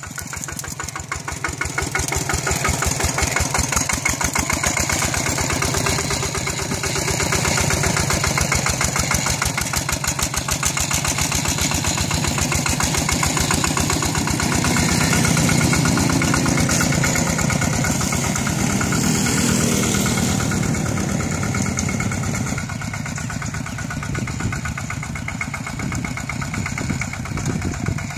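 Single-cylinder diesel engine of a two-wheel walking tractor running with a steady rapid chugging, growing louder through the middle and easing off near the end.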